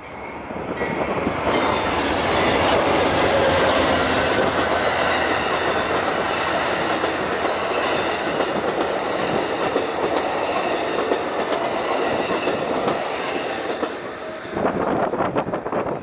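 Amtrak passenger train of silver bilevel cars rolling past close by over a steel truss bridge: a loud, steady rush of wheels on rail with a thin high wheel squeal. It builds up over the first second or two and eases off about two seconds before the end, where wind gusts on the microphone take over.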